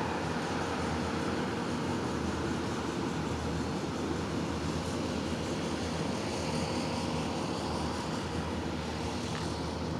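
Steady, even rumble of motor traffic, with no single vehicle rising and falling as it passes.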